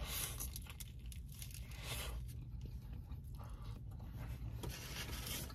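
A person chewing and crunching food in irregular bursts.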